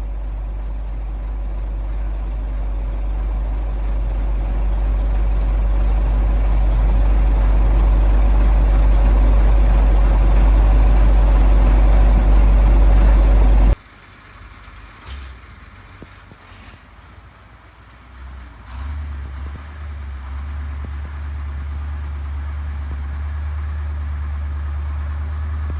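1985 KAMAZ 4310 6x6 truck's V8 diesel engine running under load while driving, a steady low drone that slowly grows louder. About 14 seconds in the sound drops off abruptly to a much quieter stretch with a few faint knocks. A few seconds later a quieter, steady engine drone comes back.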